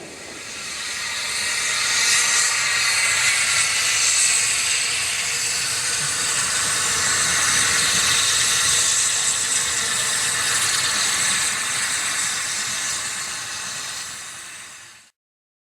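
Steam hissing steadily from a narrow-gauge steam locomotive. It builds over the first couple of seconds, holds, then cuts off abruptly near the end.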